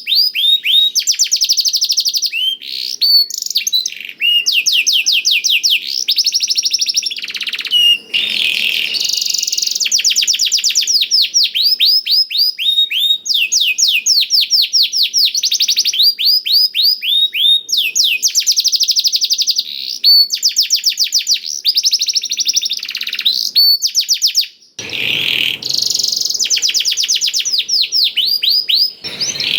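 Canary singing a long, continuous song of fast trills: rapid runs of downward-sweeping notes, several a second, broken only by brief pauses. The song carries phrases learned from a blackthroat (black-throated canary).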